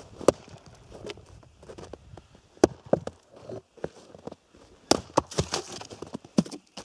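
Irregular sharp knocks and clacks with rustling between them, the sharpest about a third of the way in and again around two-thirds through.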